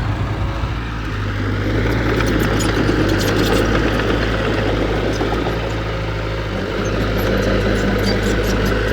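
Heavy-equipment diesel engine running steadily, a deep even hum under a rumbling mid-range, with faint scattered clicks over it.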